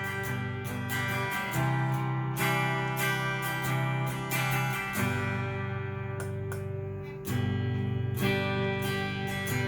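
Cort S-series electric guitar played straight through a Fender amp, strumming chords that ring out and change every second or two.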